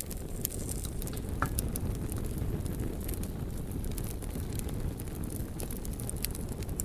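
Wood fire crackling: scattered sharp pops and snaps over a steady low rumble of burning, with one slightly louder pop about a second and a half in.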